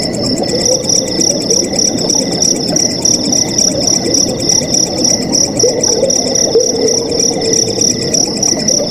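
Night crickets chirping in a steady, evenly pulsing chorus over the continuous bubbling rush of flowing water.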